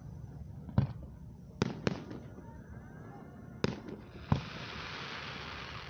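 Aerial fireworks shells bursting: five sharp booms in about four seconds, two of them close together. After the last boom comes a dense crackling that carries on.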